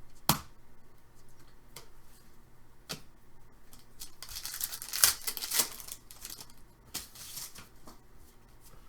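A trading card pack being torn open and handled: a few sharp clicks from card handling, and a rustling, tearing crinkle of the wrapper in the middle that is loudest around five seconds in.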